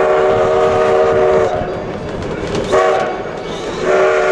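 Steam locomotive whistle blowing a chord: a long blast that stops after about a second and a half, a short toot, then another long blast starting near the end. The pattern fits a grade-crossing signal.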